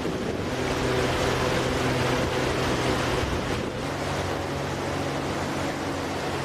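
An engine running steadily with a constant low hum, under the rushing noise of wind and surf.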